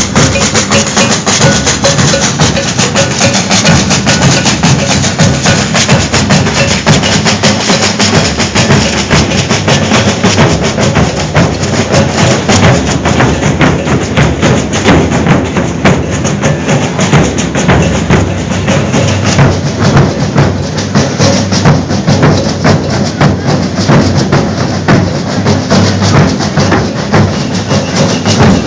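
Maracatu nação percussion ensemble playing a dense, steady baque virado rhythm, with bass drums, snare drums and shakers.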